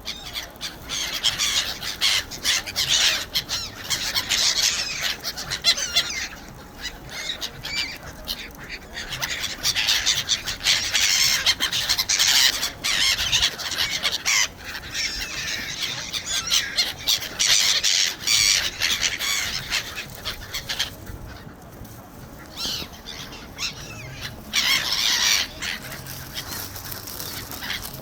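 A flock of birds calling, many high overlapping calls in dense bursts with a few short lulls.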